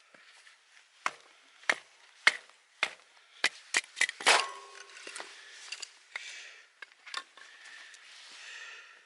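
A run of sharp, uneven knocks, like wood being chopped or struck: about eight blows over some three seconds, the loudest with a short metallic ring, followed by softer rustling and scraping.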